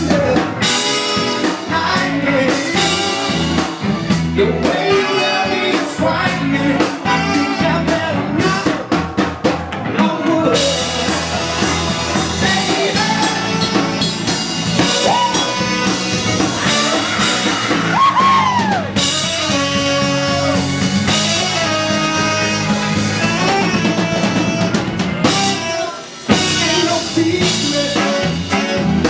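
Live blues band playing, with drum kit, guitar and a woman singing.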